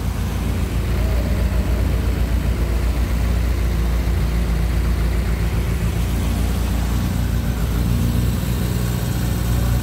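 1968 Morris Mini Cooper S's A-series four-cylinder engine idling steadily, still on part choke shortly after a cold start.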